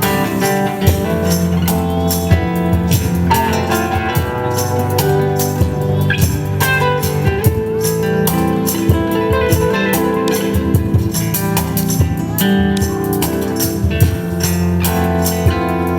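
Live band music: plucked strings over a steady beat, with frequent sharp percussion hits.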